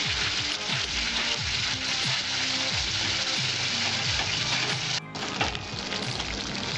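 Thick spice paste sizzling in hot oil in an aluminium kadai as it is stirred with a steel spatula: the masala being fried down until done. Background music plays under it, and the sound briefly drops out about five seconds in.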